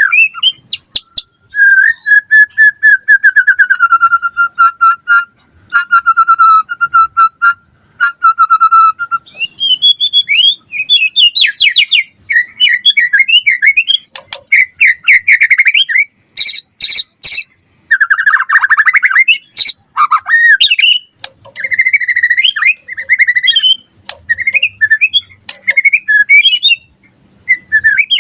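White-rumped shama singing a long, varied song of rich whistled phrases and rapid trills, with a stretch of repeated buzzy notes near the start.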